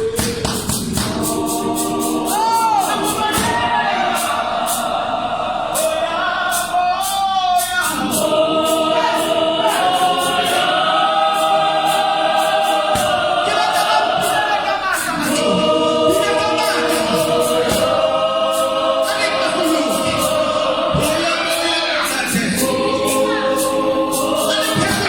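Gospel choir singing in harmony, many voices holding long chords that shift every few seconds, over a steady beat of sharp percussive hits.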